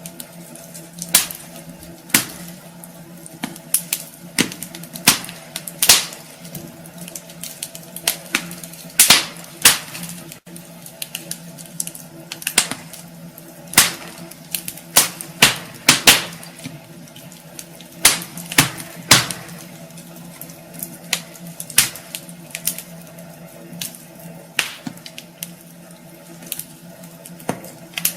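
Wood fire burning in a fireplace: logs crackling with irregular sharp pops and snaps over a soft steady hiss of the flames.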